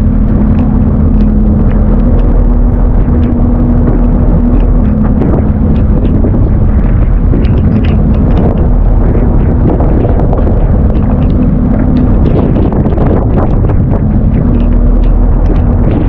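Fishing boat's engine running steadily: a loud, even low rumble with a steady hum that fades in and out, and scattered small clicks over it.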